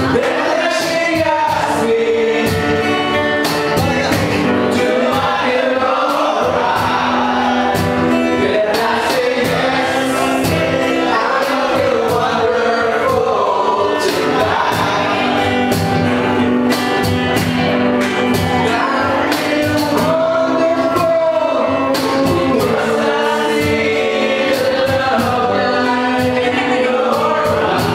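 A live band playing a song with sung vocals over drums and cymbal hits.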